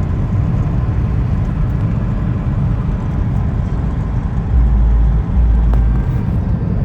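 Car on the road: a steady low rumble of road and engine noise, heavier for about two seconds past the middle.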